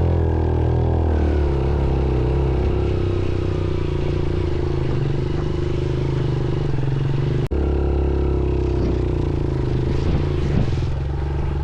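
Off-road motorcycle engine running at fairly steady revs, its pitch easing slightly in the first second, with a sudden momentary break about seven and a half seconds in.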